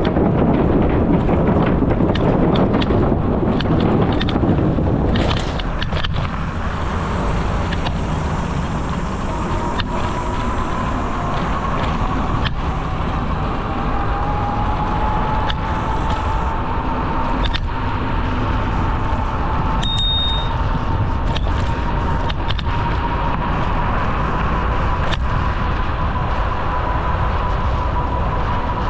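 Steady rumble of wind on the microphone and tyres rolling along a paved trail on a moving bicycle, heavier for the first few seconds. From about a third of the way in, a thin whine slowly rises in pitch, and there is a brief high ping about two-thirds in.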